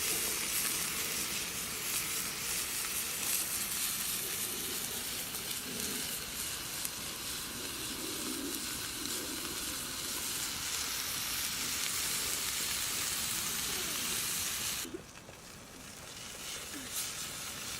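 Hamburger patties sizzling as they fry in a pan over a campfire: a steady, loud sizzle that drops away sharply about fifteen seconds in.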